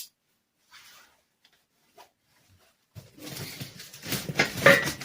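Metal engine-stand parts and their packaging being handled and shifted in the shipping box: a few faint knocks, then from about three seconds in a busy rattling and rustling that grows loud near the end.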